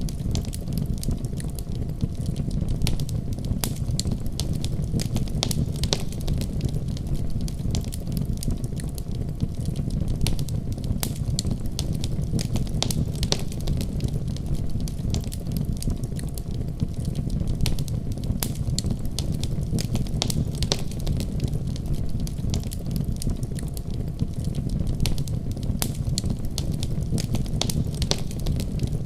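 Wood fire in a fireplace crackling, with frequent irregular snaps and pops over a steady low rumble.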